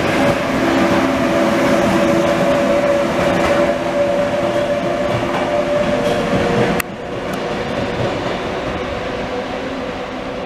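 Frecciarossa high-speed electric train running past, a steady rumble of wheels on rail with a humming drone. About two-thirds in the sound cuts off abruptly to a quieter, slowly fading hum of a Frecciarossa train approaching at low speed.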